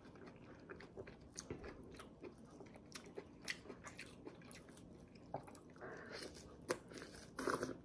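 Close-miked chewing and biting of juicy pomelo flesh: soft wet clicks and smacks of the mouth, with louder, wetter bites about six seconds in and near the end.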